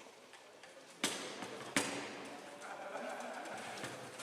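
Two sharp knocks about three quarters of a second apart, about a second in: a foosball ball being struck by the players' figures on a Bonzini table.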